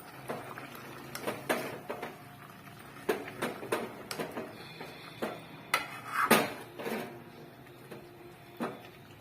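A spoon clinking and scraping against a cooking pot as the masala is stirred, with irregular knocks, the loudest about six seconds in.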